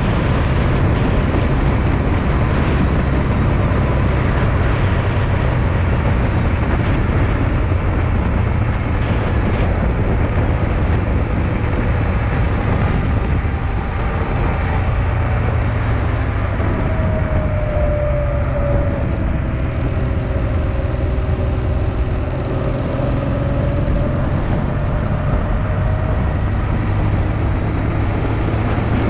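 Honda Transalp XL650V's V-twin engine running steadily while riding, with wind rushing over the microphone. A faint whine slides up and down in pitch around the middle.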